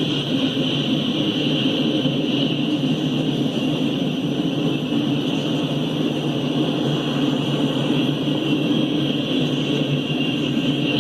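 Freight train passing at a steady pace, a continuous low rumble under a steady high hiss.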